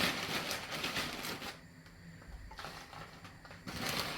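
Tortilla crisps rustling and clicking against each other as they are handled and laid onto a plate, in two spells with a short pause near the middle.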